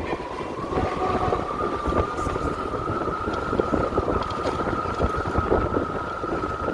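Electric motorcycle running at speed: a steady motor whine that rises slowly in pitch as it gathers speed, over road and wind rumble.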